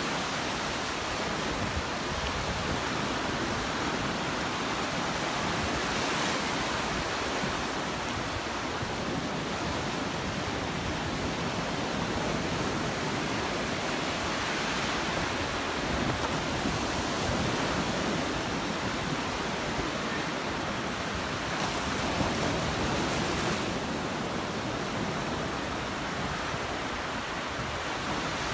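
Surf washing onto a sandy beach, heard as a steady wash of noise that swells gently, with some wind on the microphone.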